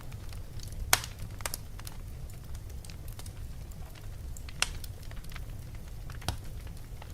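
Wood fire burning in a fireplace, with a steady low rumble of flame and irregular crackles and pops. The sharpest pop comes about a second in.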